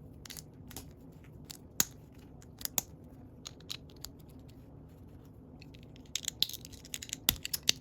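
Plastic Lego bricks and plates clicking and snapping as they are fitted and pressed together, with a quick run of several clicks near the end.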